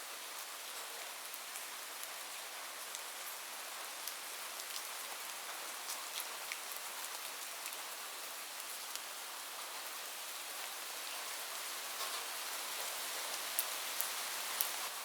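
Steady rain falling, a dense hiss with scattered sharp drop ticks, a few louder ones near the end.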